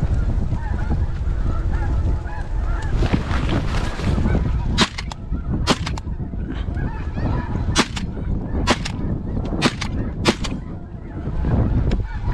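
A flock of snow geese calling, many overlapping honking calls, over heavy wind noise on the microphone. From about five seconds in, six sharp cracks ring out over the next five seconds.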